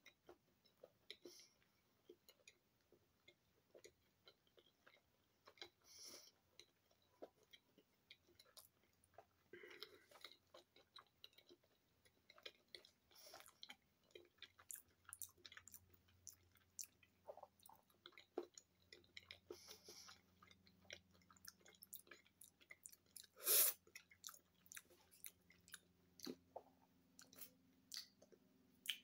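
Faint close-up chewing of a bite of battered, deep-fried corn dog: soft wet mouth clicks and crackles, irregular throughout. One louder short noise stands out about three-quarters of the way through.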